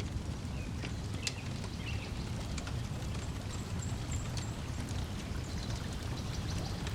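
Layered lakeside ambience: a steady low wash of lake water lapping at the shore, with scattered pops and crackles from a wood fire and a few short bird chirps.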